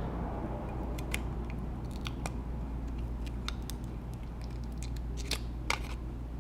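Sparse small clicks and crinkles from working a strip of adhesive tape on an iPod touch's screen frame, over a steady low hum.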